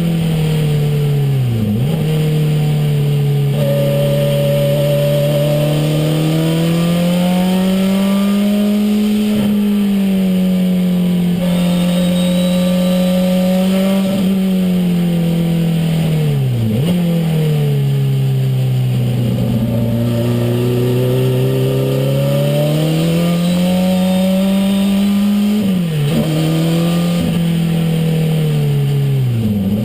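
Renault 5 Turbo's turbocharged four-cylinder engine heard from inside the cabin under hard driving, its revs swelling and easing in long rises and falls, with brief sharp dips in revs three or four times.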